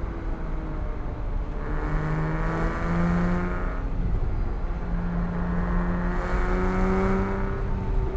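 Porsche 987.1 Cayman S's 3.4-litre flat-six engine under throttle, its revs climbing and easing off twice, about two seconds in and again around five seconds in.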